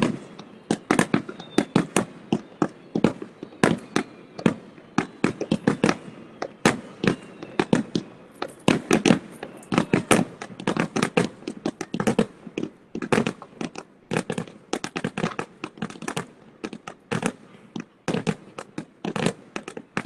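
Fireworks display: a dense, uneven string of sharp bangs and pops, several a second, with a few faint falling whistles.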